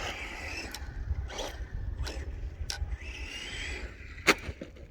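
Electric RC truck running on a dirt track, its motor whine rising and falling over scrabbling tyres, with a sharp knock near the end as the truck flips over.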